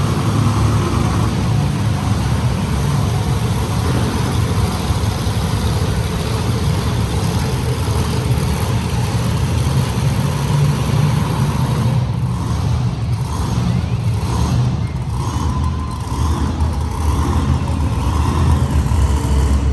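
Monster truck engines running loud and rumbling in an arena, with some revving, easing slightly past the midpoint.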